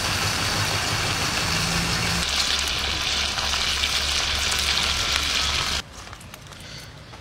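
Whole chicken sizzling and crackling in a hot pan with its juices, a dense hiss over a low hum. A little before the end the sizzle cuts off, leaving quieter handling sounds as the roasted chicken is torn apart by hand.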